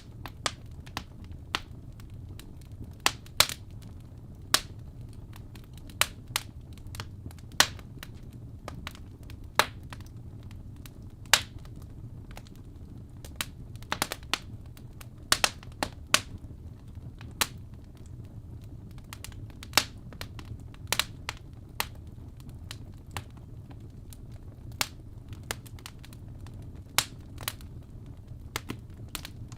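Wood fire crackling in a fireplace: irregular sharp pops and snaps, one or two a second, over a low steady rumble.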